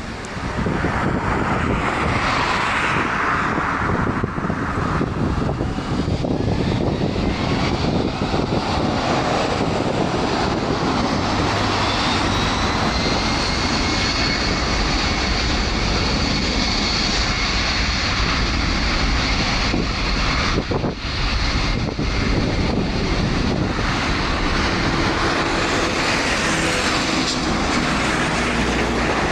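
A Boeing 757 freighter's twin jet engines, running loud and steady with a high whine that rises slightly about twelve seconds in.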